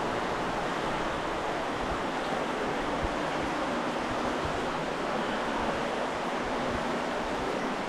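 Water flowing steadily through a small cave, a continuous even rush, with a few faint low thumps.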